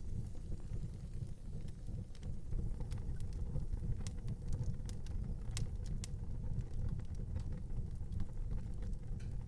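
Fire burning in an outdoor fireplace: a steady low rumble with scattered crackles and snaps, the sharpest a little past halfway.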